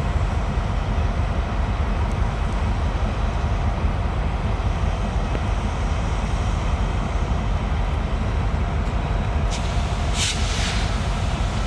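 Steady low diesel rumble with a faint constant hum, typical of locomotives idling in a rail yard. A short hiss comes about ten seconds in.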